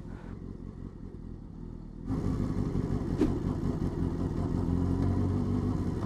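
Motorcycle engine running at low speed, quiet at first and louder about two seconds in, with a single click a second later.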